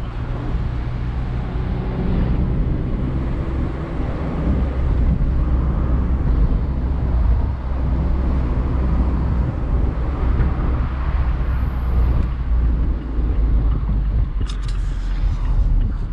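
Mazda MX-5 Miata's four-cylinder engine running at steady low revs, mixed with road and wind noise in the open-top cabin while driving. A few faint clicks come in near the end.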